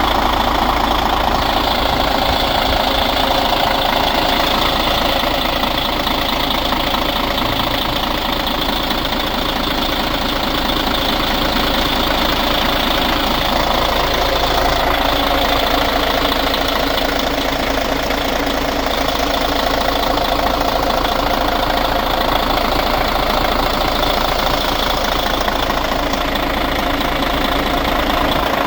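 2012 Hyundai Universe Luxury coach's diesel engine idling steadily, with an even diesel clatter and no revving.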